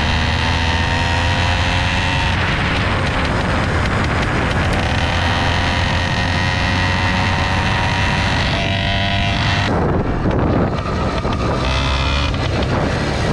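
Pexmor 66/80cc two-stroke bicycle engine with an expansion-chamber exhaust running under way, its pitch climbing steadily as it pulls, with wind on the microphone. About ten seconds in the tone breaks off and the sound turns rougher and lower.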